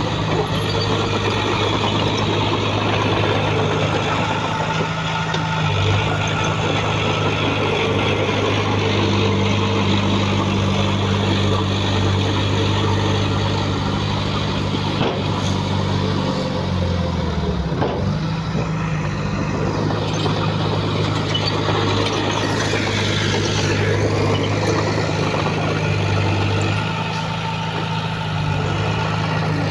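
Heavy diesel engine of earthmoving machinery running steadily; about halfway through its pitch dips briefly under load and then recovers.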